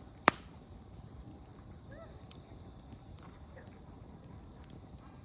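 Wood campfire burning with a low steady rush, one loud sharp pop of firewood just after the start and a few faint ticks later. Faint distant voices are heard now and then.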